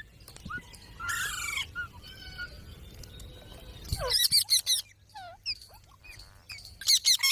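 Pet green parrot calling: a harsh squawk about a second in, then quick runs of high, rapid chirps about four seconds in and again near the end.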